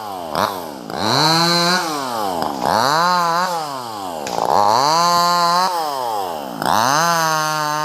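Top-handle two-stroke chainsaw (a '258' model) revved up and down about four times, each time rising to full speed, holding for about a second, then dropping back toward idle.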